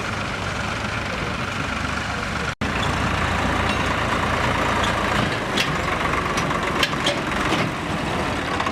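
A heavy vehicle's engine running steadily with a low rumble. The sound cuts out for an instant a little over two seconds in, and several sharp clacks come in the second half.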